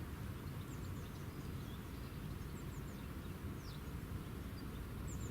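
Faint, scattered short high chirps of small birds over a low, steady outdoor rumble.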